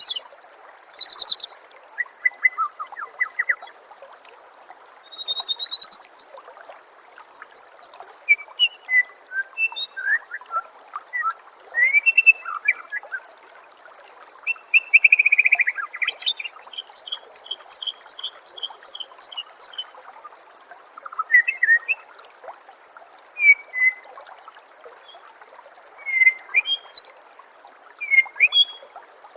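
White-rumped shama (murai batu) singing varied phrases of whistles, glides and chirps, with a run of evenly repeated notes about halfway through. Under it runs a steady trickle of water.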